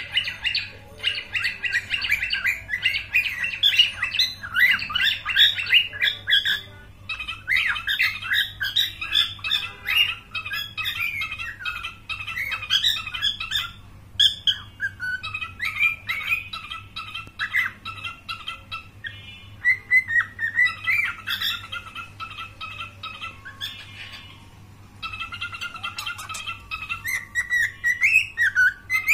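Pet cockatiel chirping and squawking in quick, busy runs of short calls, with a few brief pauses.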